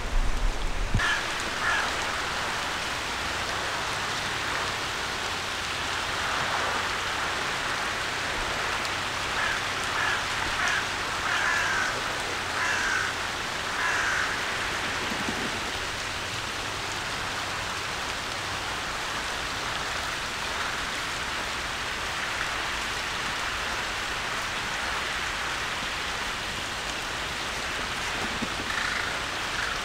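Steady rain falling, with several short calls in the middle.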